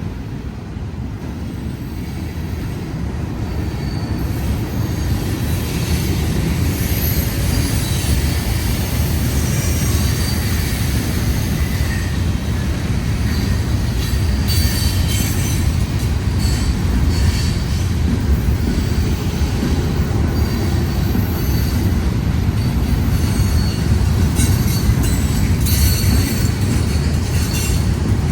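Freight train rolling past: a steady low rumble of wheels on rail that slowly grows louder, with thin high-pitched wheel squeals coming and going.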